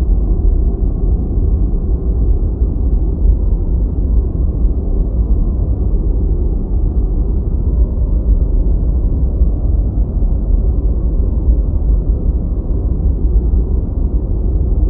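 Deep white noise, a steady, even rushing sound weighted toward the bass, with no high hiss and no change in level.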